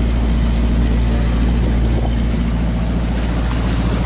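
A boat's engine running steadily at a low, even speed, with a deep hum.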